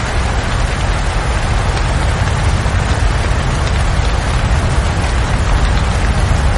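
Steady, even rain with a deep low rumble underneath, unchanging throughout.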